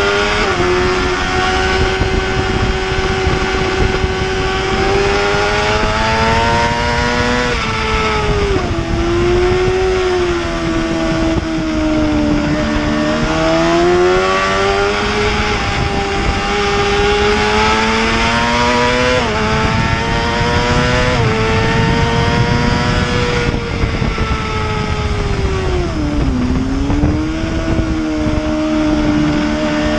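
Racing superbike engine running hard at high revs, its pitch rising and falling as it accelerates and slows. There are several sudden steps in pitch as gears change, and a deep drop under braking near the end.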